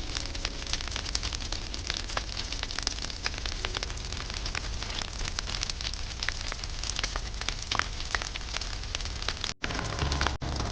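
Campfire burning with a steady hiss and many sharp crackles and pops, over a low rumble. The sound cuts out twice, very briefly, near the end.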